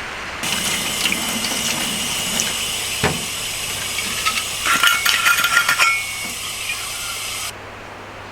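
Liquid pouring steadily into a container, starting and stopping abruptly, with a quick run of metallic clinks from cookware about halfway through.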